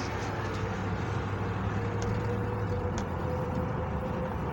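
A car driving at steady speed: even road noise with a low, steady engine hum.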